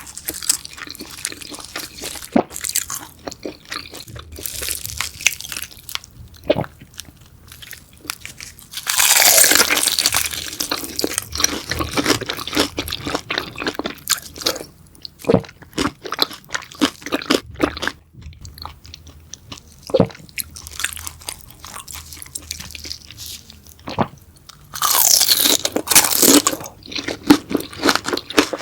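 Close-miked biting and chewing of crunchy beef intestines: a string of sharp crunches and clicks, with two louder spells of dense crunching, one about nine seconds in and another near the end.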